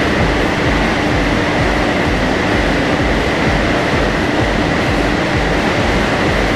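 Renault Megane 4's 1.5 dCi diesel engine running under load on a chassis dyno, with the rollers turning. It is a loud, steady noise with a constant high whine and a low rumble, and its pitch stays level.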